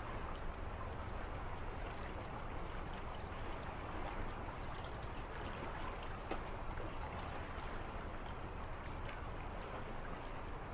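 Steady rushing water with many small ticks scattered through it.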